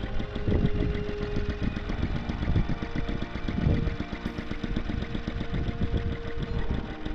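Ultimotor (Master) small air-cooled engine running at a slow idle with a rapid, slightly uneven firing beat. Its pitch shifts a few times as the throttle is tuned.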